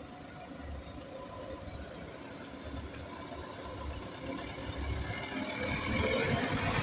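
Bus engine running as it approaches, growing steadily louder over the last few seconds.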